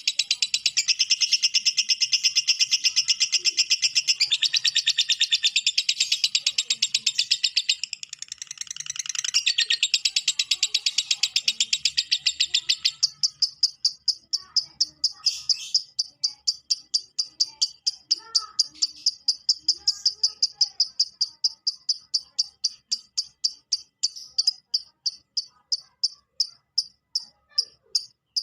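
Lovebird's long 'ngekek' chatter: a rapid, unbroken string of sharp high chirps. About halfway through it thins to a lighter, higher series of chirps that slowly spaces out toward the end.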